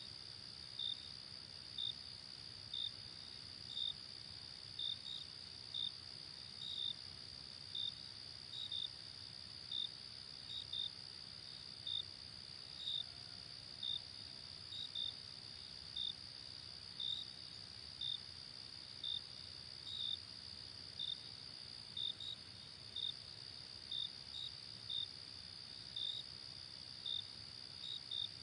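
Night insect chorus: a steady high-pitched trill with a cricket chirping over it about once a second, sometimes twice in quick succession.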